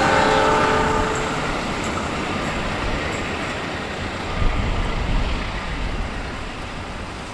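Taksaka passenger train's coaches rolling away over the rails, the rumble fading steadily as the train recedes into a tunnel. A brief ringing wheel squeal sounds in the first second.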